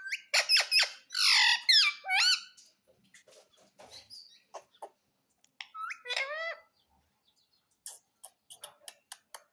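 Pet parrot calling: a quick run of loud squawks that bend up and down in pitch during the first couple of seconds, then softer scattered clicks, a few more calls about six seconds in, and a quick series of short clicks near the end.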